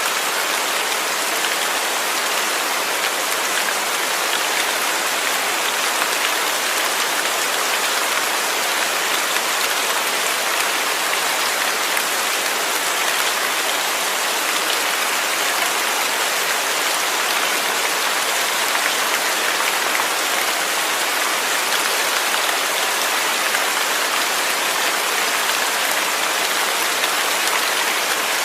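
Steady rain falling on a surface, an even hiss of many small drops without letting up.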